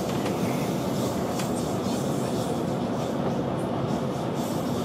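Steady running noise inside a Deutsche Bahn InterCity 2 Twindexx double-deck coach as the train moves: an even rumble of the wheels on the rails, with a few faint clicks from the track.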